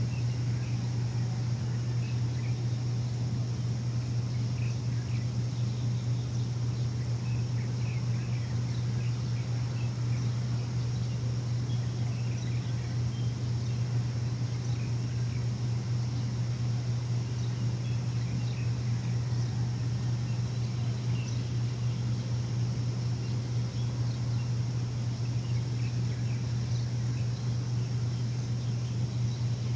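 A steady low machine hum with no change in level, with faint, scattered bird chirps over it.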